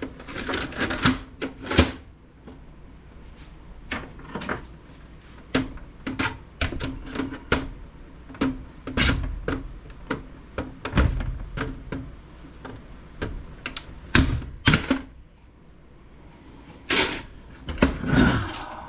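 Irregular clicks, taps and knocks of a Dell Alienware desktop PC case being taken apart by hand, its plastic and sheet-metal parts and wires being handled, with a few louder knocks.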